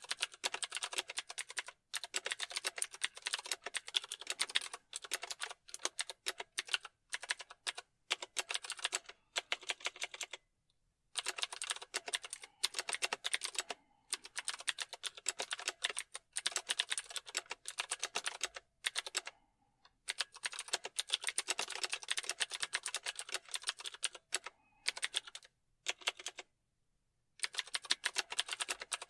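Fast typing on a keyboard: dense runs of rapid key clicks, with brief pauses between runs.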